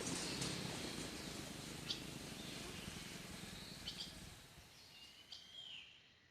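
Faint outdoor ambience with a few short, high bird chirps and one brief gliding bird call, fading out toward the end.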